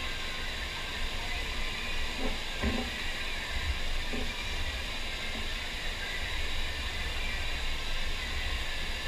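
Steady rushing hiss of a FlowRider sheet-wave machine's water flowing over the ride surface, with a constant low rumble underneath.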